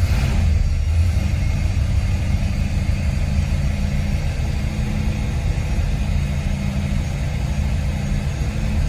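Ford 351 Cleveland V8 with Holley Sniper fuel injection idling steadily, cold, just after start-up.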